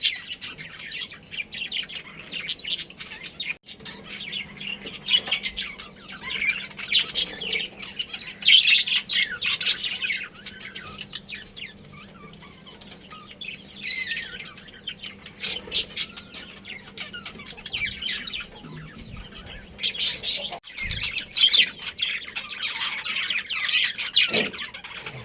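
A colony of budgerigars chirping and chattering: bursts of rapid high chirps, with short quieter lulls between them.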